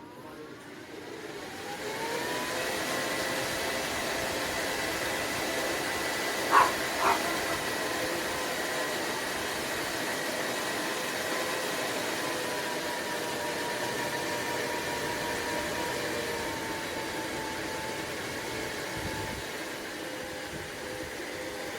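Small battery-powered fan for fan-cooled work clothing spinning up over about two seconds to a steady whir with a high whine, its pitch stepping down slightly about 16 seconds in. A dog barks twice about six and a half seconds in.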